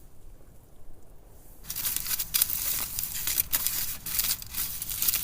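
Meat starting to sizzle and crackle as it goes onto a hot cooking surface, beginning suddenly about two seconds in.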